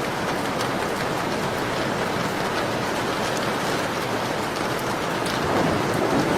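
Steady rain hiss layered with the light, scattered crackle of a wood fire in a fireplace. A fuller, deeper rush swells up near the end.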